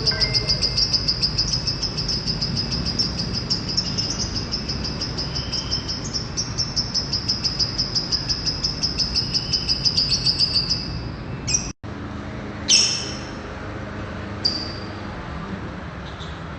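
A bird's high-pitched trill of rapidly repeated notes, about five a second, running unbroken for around eleven seconds, then breaking off. A few short single calls follow.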